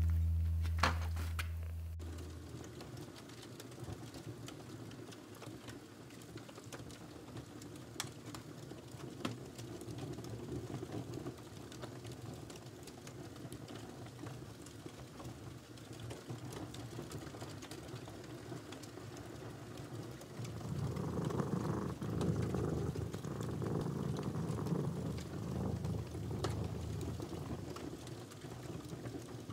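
A guitar note fades out at the start. Then faint, irregular small clicks and chewing sounds from cats eating, with a louder stretch of chewing and rustling about two-thirds of the way in.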